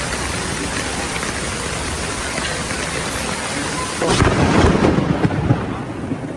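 A steady rushing hiss like rain, then about four seconds in a sudden loud, low rumble of thunder that dies away over a couple of seconds.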